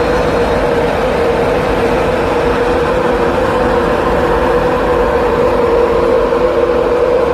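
Train running close past on the platform line: a steady loud rumble with a held tone above it.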